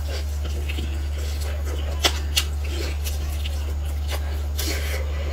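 Close-miked eating: biting and chewing a crisp pan-fried meat pie, with a few sharp crunchy clicks about two seconds in and a longer crunch near the end, over a steady low hum.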